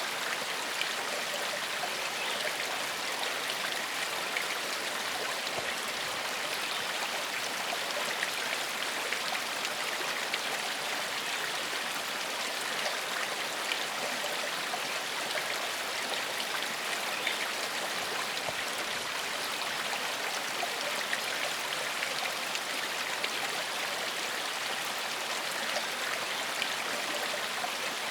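Shallow forest stream flowing steadily over stones, a constant rush of water with small splashes and trickles.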